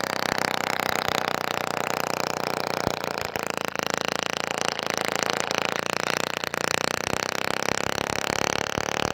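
Small homemade gasoline engine, converted from an old refrigerator compressor, running steadily.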